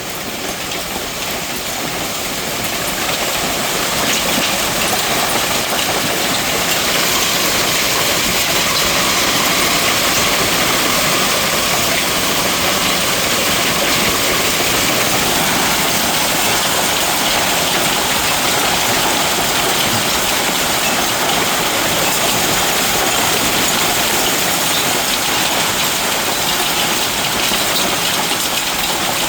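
Heavy rain pouring down in a severe thunderstorm, a steady hiss that grows louder over the first few seconds.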